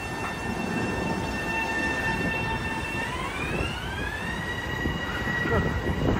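Long Island Rail Road train running past, a steady rumble under a high whine that glides up in pitch about three seconds in, then holds steady.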